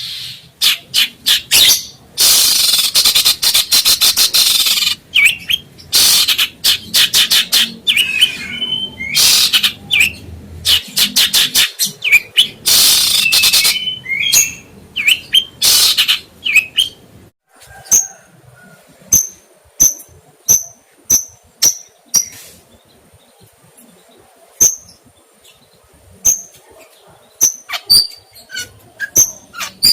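Songbird calling: a long stretch of harsh, rasping chatter in quick bursts, then a run of short, sharp high chirps at about two a second, and scattered varied chirps near the end.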